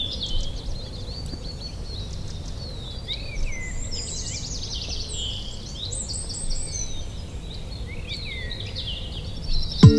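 Several songbirds chirping and trilling over a steady low outdoor rumble. Right at the end a deep hit sounds and held music notes begin.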